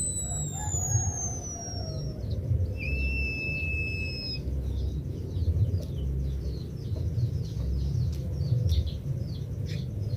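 White-headed munia (emprit kaji) singing its long whistled song. It begins with a long, thin, slowly falling whistle, then a high steady whistle, then a run of short, quick downward chirps at about three a second. A steady low rumble sits underneath.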